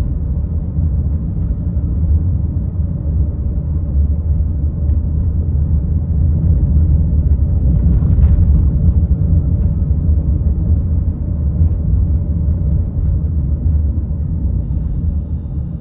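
Steady low rumble of a moving car's road and engine noise, heard from inside the car. There is a brief tick a little past halfway and a short high-pitched tone near the end.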